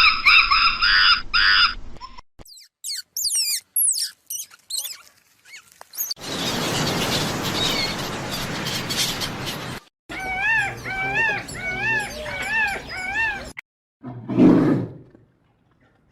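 A series of different animal calls one after another: a pitched call ending about two seconds in, quick high chirps, a few seconds of harsh noisy calling, a run of about six repeated rising-and-falling calls, then two short low calls near the end.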